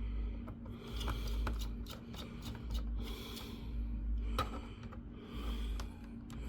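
Screwdriver turning out a screw from a laptop's plastic bottom cover, with scattered light clicks and soft scraping of tool and hands on plastic, over a steady low hum.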